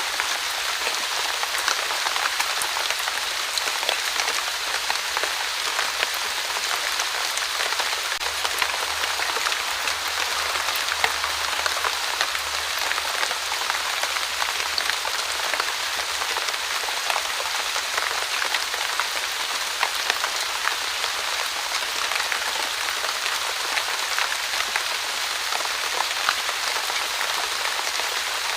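Steady light rain falling, a constant hiss with many small drop ticks on surfaces.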